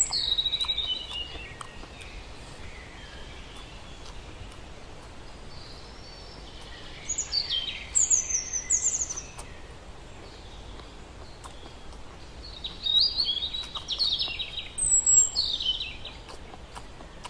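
A bird singing: three spells of quick, bright phrases that fall from very high to middle pitch, at the start, about halfway through and again near the end, over a steady low hiss.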